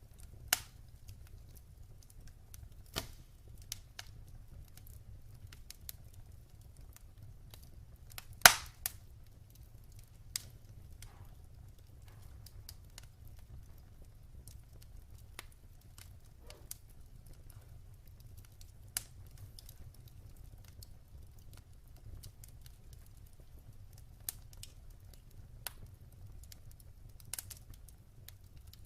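Wood fire crackling: scattered sharp pops and snaps at uneven intervals, the loudest about eight and a half seconds in, over a low steady rumble of the burning fire.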